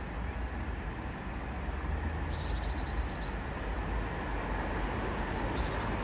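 Small songbird calling with short, high-pitched chirps: one about two seconds in, running into a brief rapid trill, and another about five seconds in. Under it is a steady background rumble of outdoor noise.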